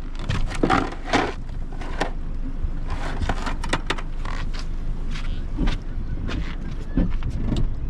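Small fishing boat under way: a steady low rumble of motor and water, broken by frequent irregular splashes and rushes against the hull.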